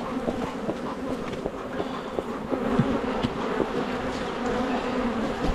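Honeybees buzzing around an open hive: a steady hum from many bees, with short rises and falls in pitch as single bees fly close by. The colony is agitated and defensive during a summer nectar dearth.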